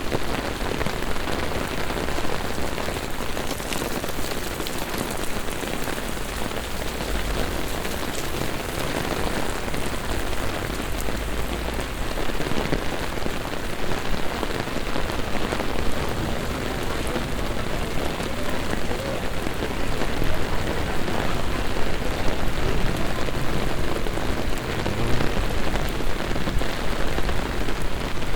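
Heavy rain pouring steadily onto city streets and pavements during a thunderstorm.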